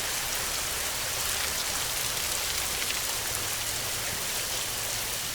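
Heavy rain falling steadily: a dense, even hiss sprinkled with small drop ticks, over a faint low rumble.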